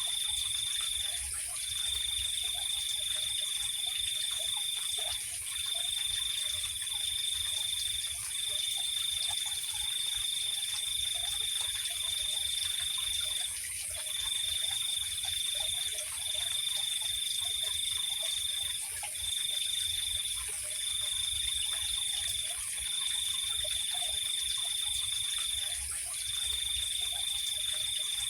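Night chorus of calling insects: one high-pitched trill going in long unbroken stretches of one to five seconds with short breaks, over a constant, even higher-pitched insect whine.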